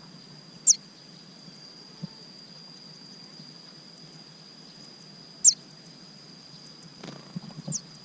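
Three short, high chirps from a small bird, each sliding quickly downward, a few seconds apart, over a steady high-pitched insect whine.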